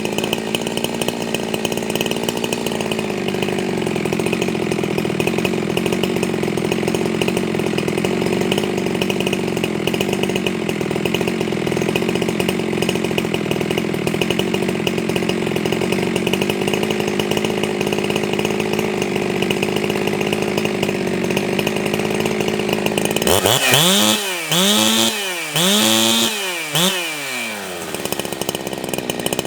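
Ported Jonsered 2165 two-stroke chainsaw running steadily at high revs. About three-quarters of the way in, its revs rise and fall sharply about four times, then it settles back to a steady run.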